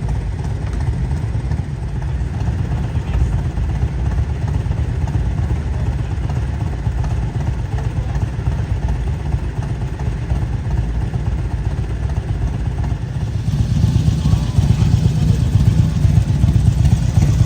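Steady low rumble of motorcycle engines running, growing louder about three-quarters of the way through.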